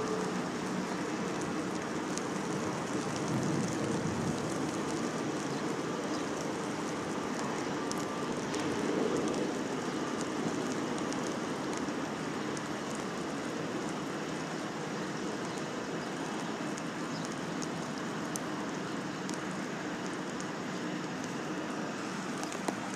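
Steady rain: an even hiss with scattered small ticks of drops, over a low steady rumble.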